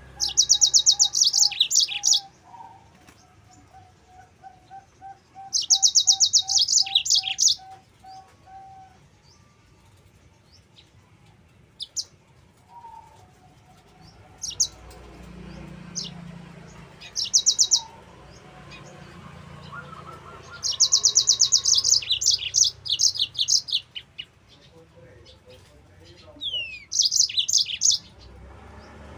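Yellow-fronted canary (Mozambique canary) singing: loud, fast, high-pitched trilled phrases of one to three seconds, repeated five times with gaps of a few seconds. A faint row of lower, evenly repeated notes runs under the first phrases.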